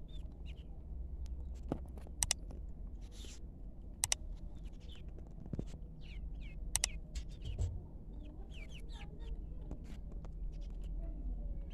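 Local Arab-breed chickens (دجاج العرب) giving scattered short, high calls. Three sharp clicks come at about 2, 4 and 7 seconds in, over a steady low hum.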